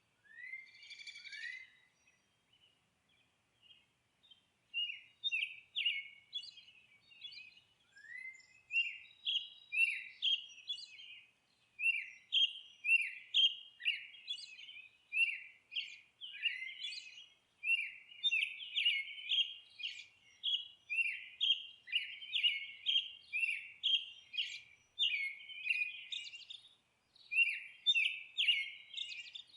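Songbirds chirping and singing in quick, high, overlapping phrases of short falling notes, sparse at first and busier through the second half.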